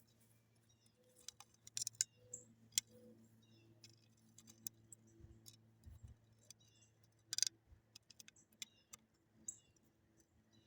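Faint bird chirps, short high notes repeated every second or so, over a steady low hum, with scattered sharp clicks and ticks, the loudest about two seconds in and again past the middle.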